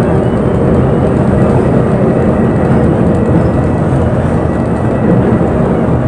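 Engine and road noise inside a moving town bus: a steady low rumble.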